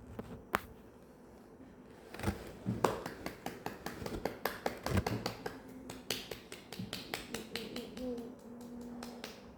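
A rapid, irregular series of sharp clicks or snaps, about three to four a second, starting about two seconds in and thinning out near the end.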